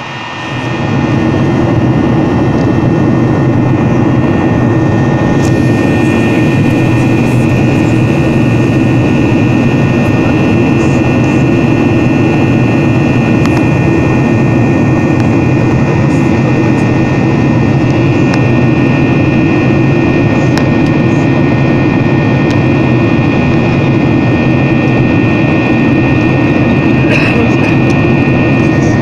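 Jet airliner engines spooling up over the first second or two, then running steadily at high power with a steady high whine over a loud rumble: takeoff thrust.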